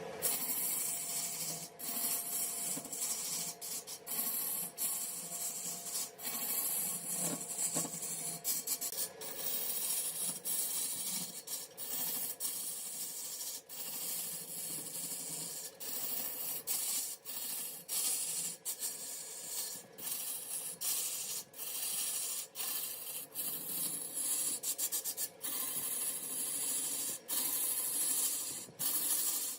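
Wood spinning on a lathe being worked with a tool held against it: a steady hissing rasp, broken by many brief gaps where the tool comes off the wood.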